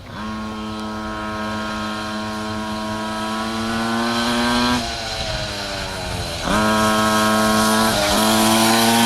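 Small motorcycle engine running at high revs, its pitch creeping slowly upward. About five seconds in the revs drop off, then surge back up a second and a half later, with a brief dip near the end.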